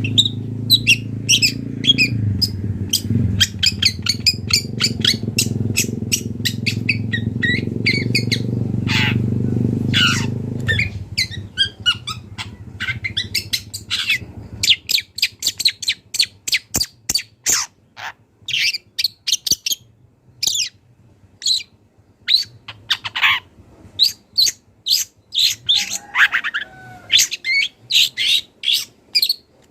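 Long-tailed shrike (cendet) singing a fast, varied song of sharp chirps and squawky notes, its phrases packed with mimicked calls of other birds. A steady low hum underlies the song and stops about eleven seconds in.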